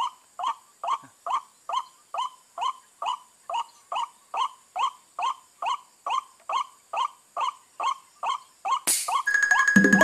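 White-breasted waterhen (ruak-ruak) calling, a short downward-sliding note repeated steadily about three times a second, which stops near the end.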